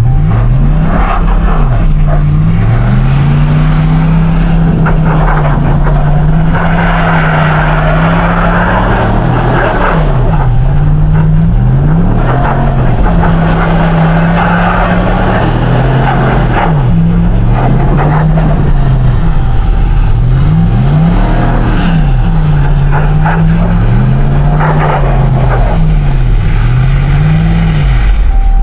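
Ram 1500 pickup's engine revving up and down over and over, its pitch climbing and dropping every second or two, over a steady low rumble.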